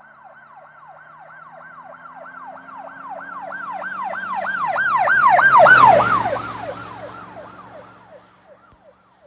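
Emergency vehicle siren in a fast, repeating yelp, driving past: it grows louder, peaks about six seconds in, then fades as its pitch drops, with the vehicle's low engine and road noise underneath.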